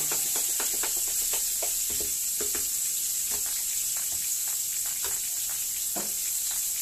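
Chicken pieces frying in a pan of hot oil, a steady sizzle, with scattered light clicks and taps.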